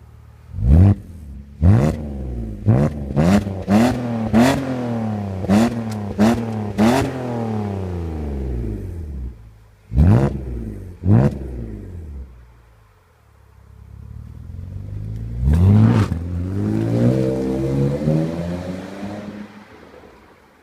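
BMW E39 525i's 2.5-litre straight-six revved through an aftermarket F&F Motorsport exhaust system from the catalytic converter back, engine warm. A rapid series of short, sharp throttle blips, each rising quickly and falling back, then two more blips, then one longer rev that climbs more slowly and falls away near the end.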